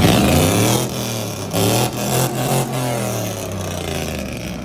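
Car engine revving loudly, then its pitch falls steadily over about four seconds as the sound fades.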